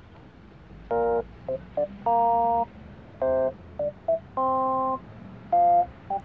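A sequence of electronic beeping tones at several different pitches, some quick blips and some held about half a second, over a faint hiss.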